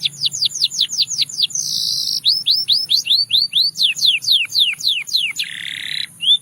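Domestic canary singing: runs of rapid, repeated downward-sweeping whistled notes, about six a second, broken by a short high buzzy note about a second and a half in and a lower, harsher buzzy note near the end, followed by rising notes.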